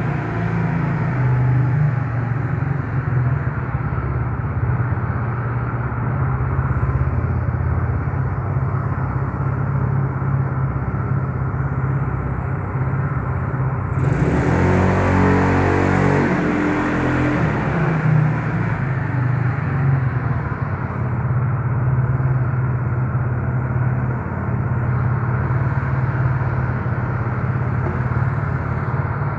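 Yamaha Mio Soul scooter's single-cylinder engine running steadily under way, with road noise; a louder rush of noise swells from about halfway through for a few seconds.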